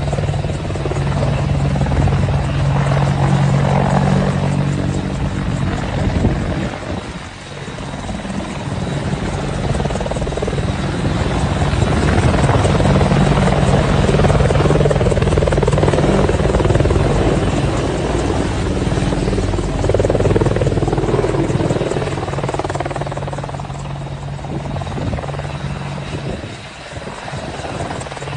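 AH-64 Apache helicopter running, its rotor sound swelling and fading in loudness, with two brief dips.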